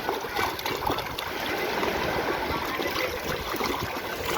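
Seawater washing and splashing: a steady rush of water with many small splashes.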